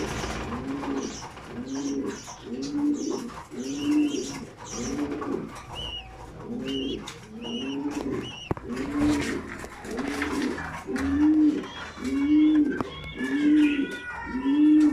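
Racing pigeons cooing: a steady run of low, arching coo notes, about one and a half a second, with fainter high squeaky calls over them now and then.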